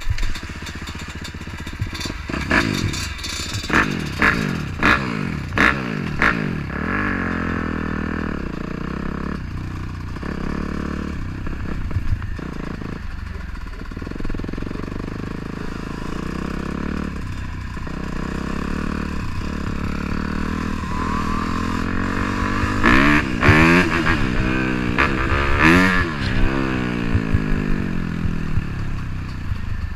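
Dirt bike engine being ridden off-road, revving up and down: a run of short sharp throttle blips in the first few seconds, steadier running through the middle, then several quick rises and falls in pitch near the end.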